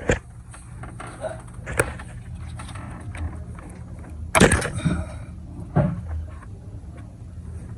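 Scattered sharp clicks and knocks of hand tools and metal parts, made while working loose the hose clamps on the engine's intake hoses, over a steady low hum. The loudest is a short cluster of knocks about halfway through.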